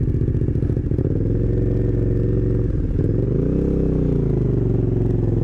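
2015 Aprilia Caponord 1200's 1200 cc V-twin running through a GPR Furore carbon slip-on exhaust while riding, a steady engine note with the revs climbing and dropping back once, about three to four and a half seconds in.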